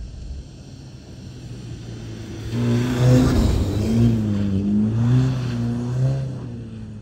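VW Golf R's turbocharged four-cylinder engine revving up and down as the car drifts past on snow, its tyres spinning and hissing through the snow. It swells as the car comes close about two and a half seconds in and fades as it slides away.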